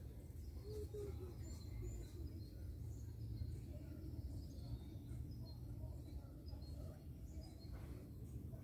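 Faint, scattered chirps of small birds in marshy scrub over a low steady rumble.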